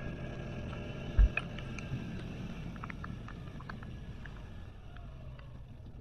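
SYM Maxsym TL maxi-scooter running, a steady low rumble of engine and road noise, with one low thump about a second in and faint short high peeps scattered throughout.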